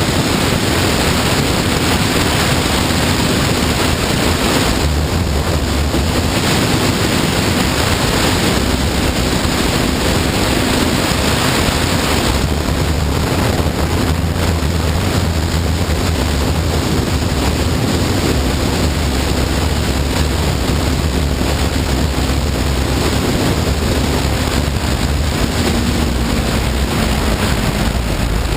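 Heavy wind rushing over the microphone on a moving Honda CBR954RR sport bike, with its inline-four engine running steadily underneath.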